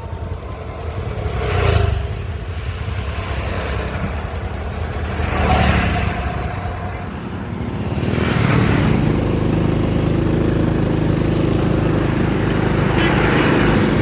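Road traffic: vehicles pass by several times, each a swelling rush of engine and tyre noise, and from about eight seconds in an engine runs steadily close by.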